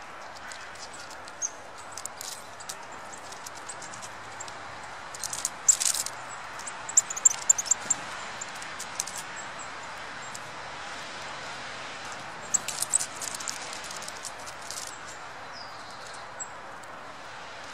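Small birds' thin, high calls and quick sharp clicks, coming in two clusters, about five and about twelve seconds in, over a steady background hiss.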